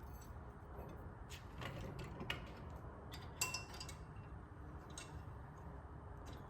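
Scattered light metallic clicks and knocks as metal parts of the trailer jack are handled. One sharper clink with a brief ring comes about three and a half seconds in.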